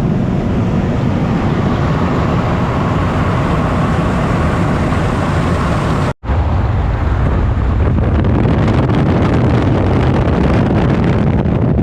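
Steady driving noise of a moving vehicle: engine and road rumble with some wind. It cuts out for a split second about halfway through.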